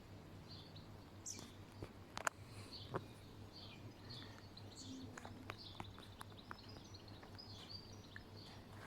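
Faint bird chirps over a steady low hum, with a few sharp clicks about two and three seconds in.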